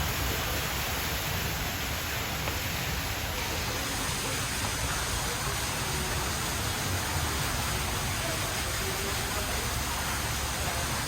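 Steady rushing of falling water from an indoor waterfall.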